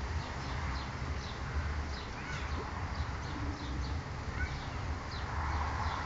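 Small birds chirping in short, repeated high notes over a steady low rumble of outdoor background noise.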